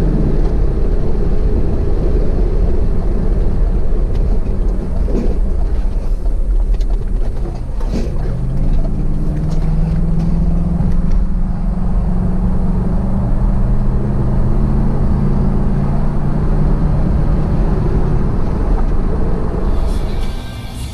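Car engine and road noise as heard on a dash cam: a steady low rumble. A few sharp knocks come in the first half, and a steady engine drone is added from about a third of the way in to near the end.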